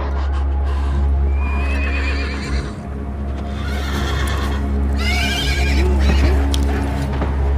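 Two wavering, whinny-like animal cries, the second about three seconds after the first, over a steady low-droning music score.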